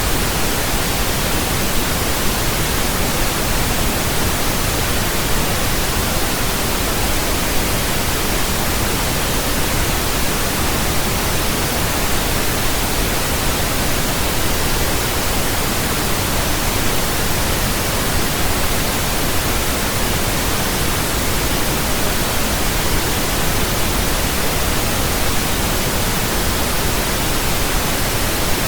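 Steady pink noise: an even, unchanging hiss across the whole range, like white noise with more bass rumble.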